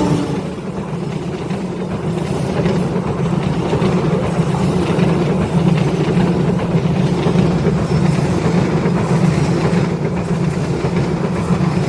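A train rolling past, a loud steady rumble of wheels on the rails.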